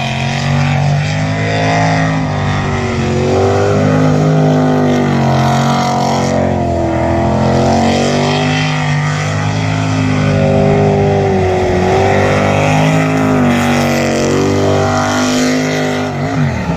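Jet sprint boat engine running hard, its pitch rising and falling repeatedly as it is revved up and backed off through the turns of the course.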